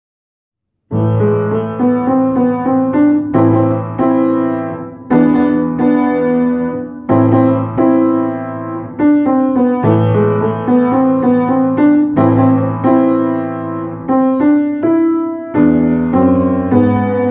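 Background piano music, starting about a second in after a short silence.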